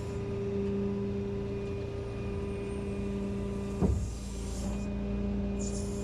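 A tow truck's engine running with a steady, even hum. One sharp thump about four seconds in.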